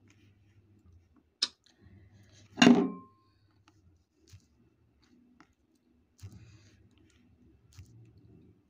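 Close-up chewing of crisp green mango slices. A sharp click comes a little over a second in, a loud crunch follows about a second later, and softer crunching returns near the end.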